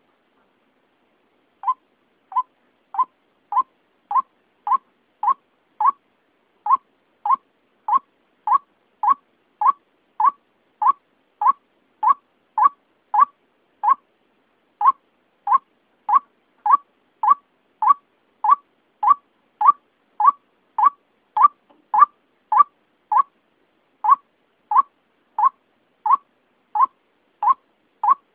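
White-breasted waterhen (ruak-ruak) lure call: one short, identical note repeated steadily about twice a second. It starts about two seconds in and breaks off briefly about halfway through.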